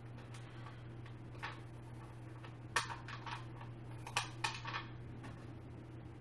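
Small metal clicks and clinks of chair-assembly hardware being handled, a washer and bolt knocking against the metal parts, about six sharp ticks with the loudest near the middle. A steady low hum runs underneath.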